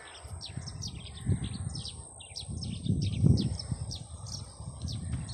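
Many small birds chirping, with short, rapid, falling chirps repeating throughout. Low rumbling noise underneath, loudest about three seconds in.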